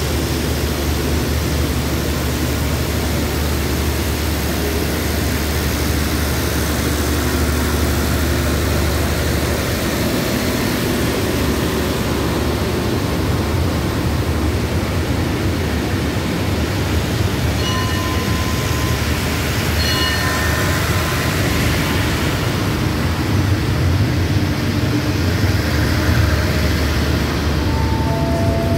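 State Railway of Thailand passenger train pulling out, its coaches rolling past alongside with a steady rumble of wheels and running gear. A low hum under it fades about ten seconds in, and a few short high tones sound about two-thirds of the way through.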